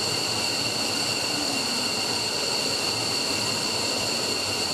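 F-15's Pratt & Whitney F100 turbofan engines running steadily during a ground test run: a constant rush of noise with several steady high-pitched whines.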